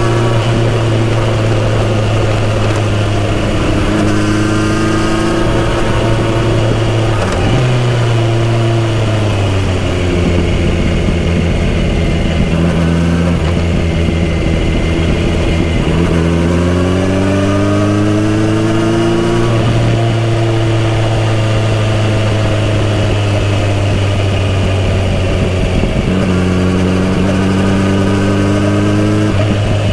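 Kawasaki Z900RS inline-four engine through a full-system exhaust, riding on the road: the engine note climbs as the bike accelerates and drops back with each gear change or roll-off, several times over.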